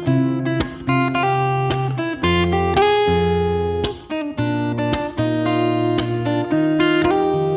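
Acoustic guitar music: chords and notes struck every half second or so and left to ring.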